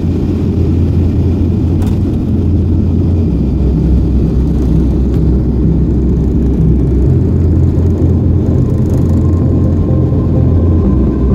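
Loud, steady low rumble, its lowest pitch shifting in steps every few seconds.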